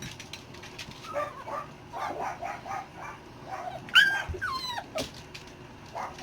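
Six-week-old dachshund puppies play-fighting: a run of short high yips, then about four seconds in one pup gives a loud, high, falling cry, followed quickly by a second cry.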